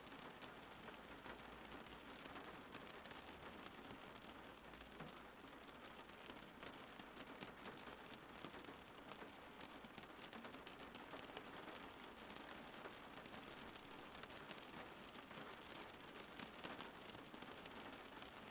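Steady rain falling outside, a faint even hiss with fine pattering drops.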